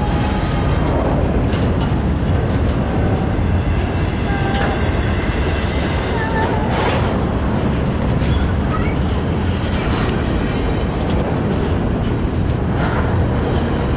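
Double-stack intermodal well cars rolling past close by: a steady heavy rumble and clatter of steel wheels on rail, with a few brief high squeaks and clanks along the way.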